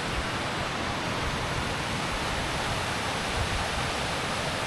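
Small river cascade rushing over rocks, a steady even roar of falling water.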